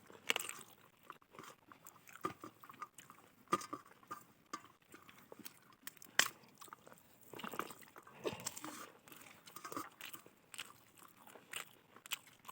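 A person chewing fried rice and fried egg close to the microphone: irregular short mouth clicks and wet chewing sounds.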